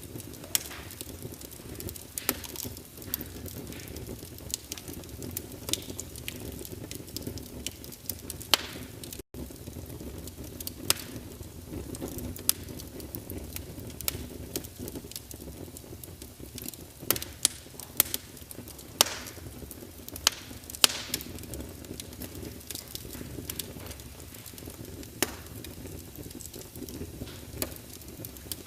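Wood fire burning in a fireplace: a steady low rush of flame with irregular sharp crackles and pops from the burning logs, a few louder pops about two-thirds of the way through.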